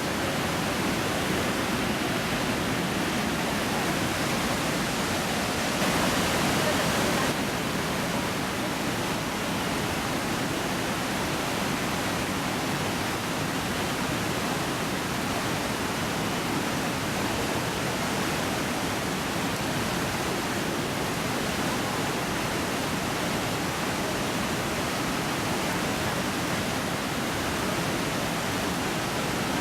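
Steady roar of Iguazu Falls, water pouring over the cliff as a continuous rushing noise, briefly a little louder about six seconds in.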